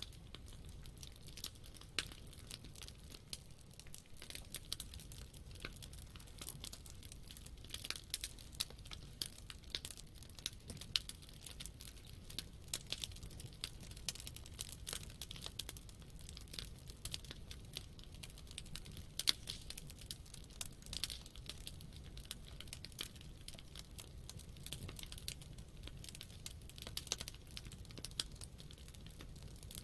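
Campfire wood burning, crackling with many small irregular pops and snaps over a low steady rumble.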